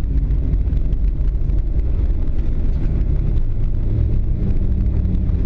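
Boeing 737 cabin noise after landing: a steady low rumble of the jet engines and airflow, with a low, even hum.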